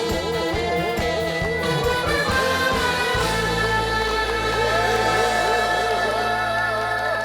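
Live trot music ending a song: the band plays the closing bars and then holds a final sustained chord from about three seconds in.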